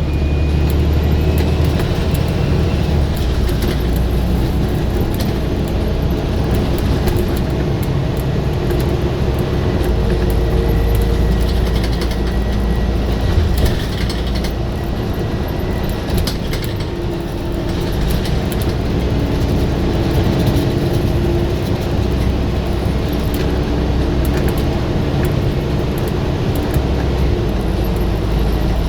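Scania bus engine running hard under load, its low drone shifting pitch several times, with frequent short rattles and clicks over it.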